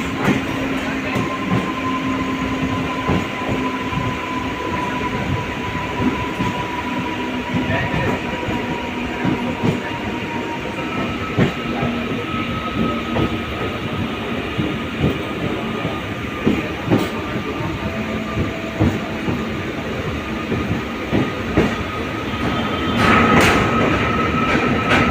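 Mumbai suburban local train running, heard from inside a carriage: a steady rumble with wheels knocking over rail joints and a thin steady whine. It gets louder near the end.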